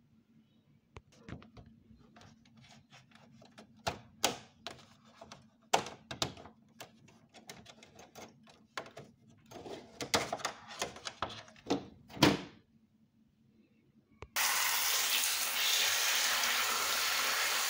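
Irregular plastic clicks and knocks as the filters of a wall-mounted split air conditioner are handled. About fourteen seconds in, a tap is turned on and water runs steadily with a loud hiss, rinsing the filter.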